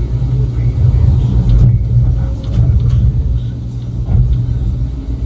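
Heavy loading equipment's engine running with a steady low rumble, with a few short knocks and clatters about two to three seconds in.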